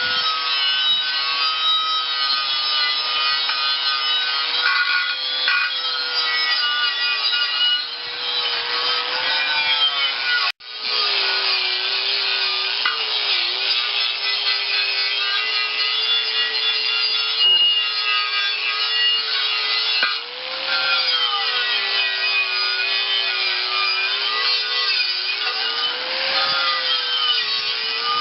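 Power wire brush scouring a steel tractor rim: a steady scratching rasp over a motor whine whose pitch sags and recovers as the brush is pressed into the metal. There is a brief break about ten seconds in.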